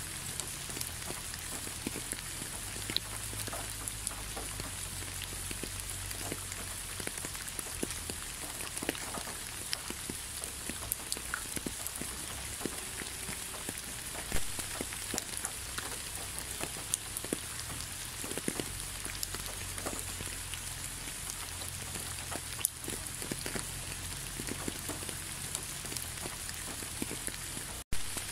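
Steady rain falling, with many separate drops ticking over an even hiss. The sound cuts out for an instant near the end, then comes straight back.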